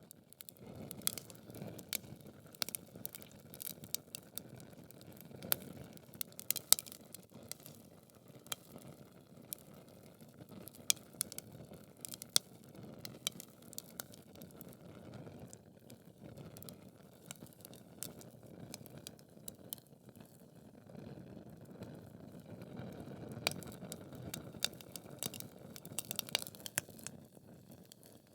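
Logs burning in a fireplace: frequent sharp crackles and pops of the burning wood over a soft, steady low rush of the flames.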